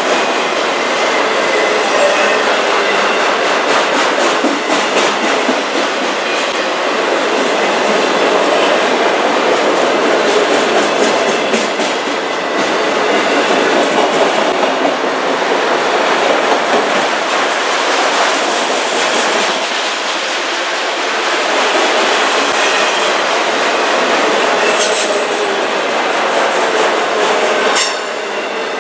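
Autorack freight train cars rolling past: a steady loud rumble and clatter of steel wheels over the rails, with a faint high wheel squeal at times.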